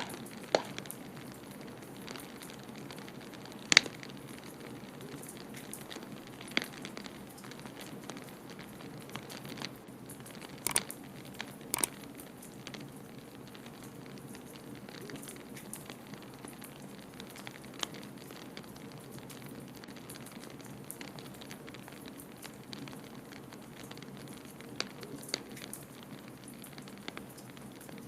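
Wood fire crackling in a fireplace: scattered sharp pops and snaps over a steady rushing noise.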